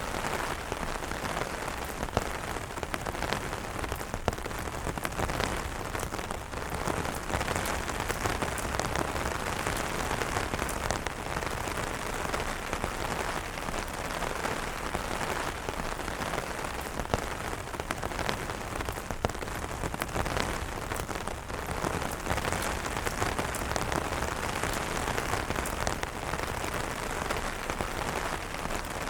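Steady rain falling on umbrellas: a continuous hiss of rain with many separate sharp drop ticks.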